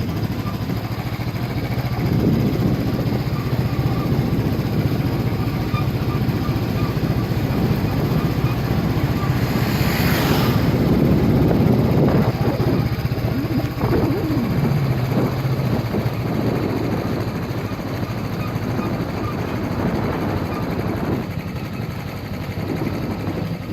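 Motorcycle engine running steadily on the move. About ten seconds in comes a brief, louder rush of noise.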